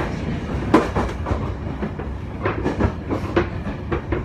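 Running noise inside a moving train car: a steady low rumble with irregular clacks and knocks from the wheels and carriage.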